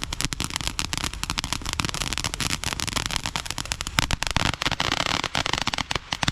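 Fireworks crackling: a dense, continuous stream of rapid sharp pops running together.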